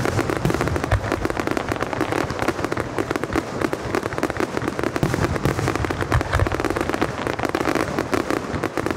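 Fireworks going off in a dense, continuous barrage of rapid crackling bangs, with a few deeper booms mixed in.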